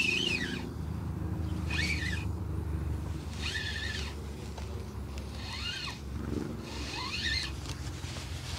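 A bird calling repeatedly: about five short calls, each rising and falling in pitch, spaced about a second and a half apart, over a steady low rumble.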